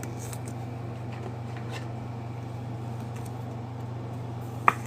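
Quiet handling of trading cards and plastic card sleeves, faint scattered ticks over a steady low hum, with one sharp click near the end.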